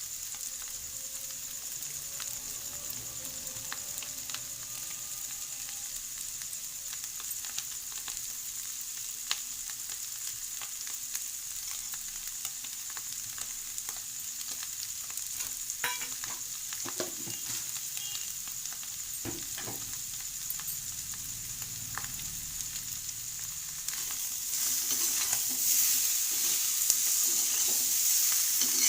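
Potatoes frying in hot oil and spices in a kadhai: a steady sizzle with occasional clicks and knocks from stirring. The sizzle gets louder about 24 seconds in.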